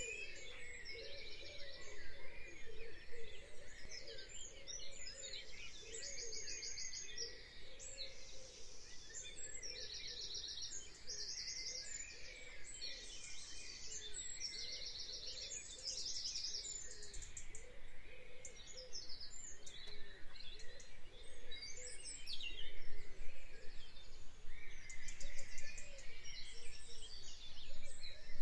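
Birds chirping and singing, many short trilled calls one after another, over a steady low background noise.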